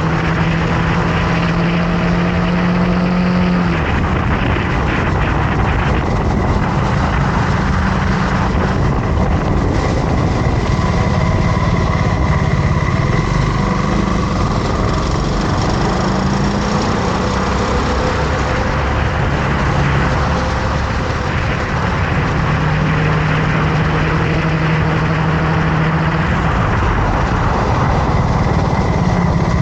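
Motorcycle engine running while riding, its note holding steady for stretches and shifting in pitch in between, with wind noise on the microphone.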